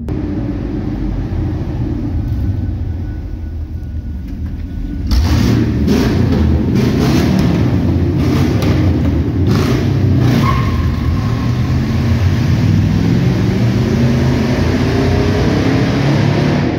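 1997 Chevy Suburban's 350 Vortec V8 (5.7-litre small-block) with its muffler deleted, the exhaust echoing in a tunnel. It runs at a low steady rumble, then about five seconds in the throttle opens and it gets suddenly louder, its pitch rising steadily through the last several seconds as it accelerates.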